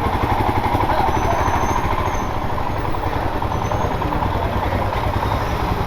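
Motorcycle engine running steadily as the bike rides along, its firing pulses even and unbroken. A few faint short high chirps sound over it about one to four seconds in.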